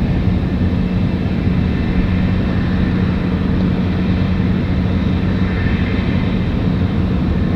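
Airbus A220-300's Pratt & Whitney PW1500G geared turbofans on takeoff, a steady jet roar that holds level throughout.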